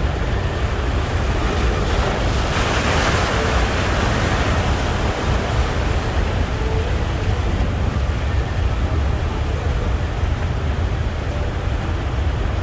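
Ocean surf on a beach, a wave breaking and washing in about two to three seconds in, over a steady low rumble of wind on the microphone.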